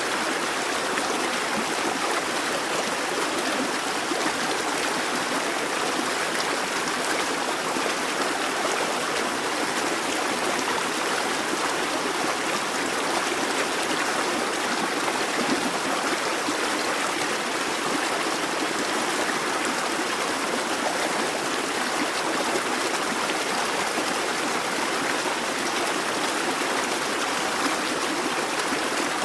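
A brook babbling steadily, water running busily over stones.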